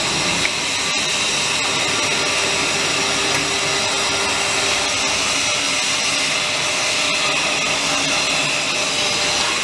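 TDF flange roll-forming machine running steadily: a continuous mechanical noise from its motor and rollers, with a few steady high tones and a couple of faint clicks.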